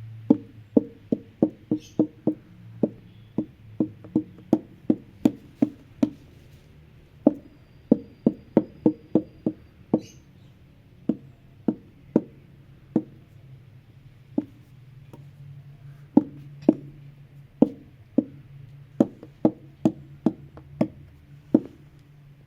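Repeated hollow wooden knocks, about two to three a second in irregular runs broken by short pauses.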